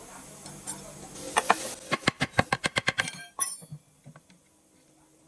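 Sharp metallic clicks from tool work on engine parts: a few scattered clicks, then a quick even run of about ten clicks within a second, then a single clink.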